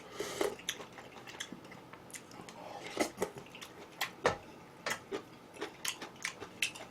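Cutlery clicking and tapping against dishes during a meal, with many short, irregular light clicks, a few stronger taps about three and four seconds in.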